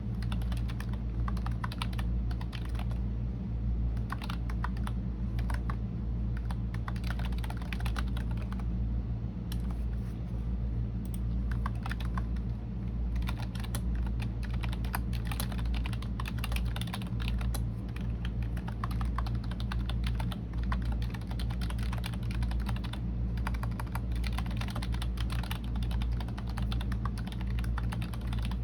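Computer keyboard typing: quick runs of key clicks with brief pauses between them, over a steady low hum.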